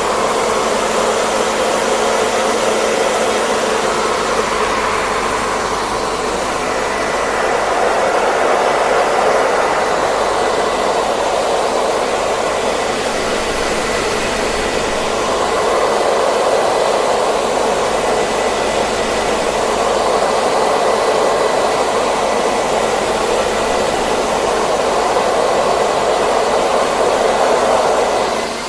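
Hair dryer blowing continuously: a steady rush of air with a faint high whine. The loudness swells and eases slowly every several seconds.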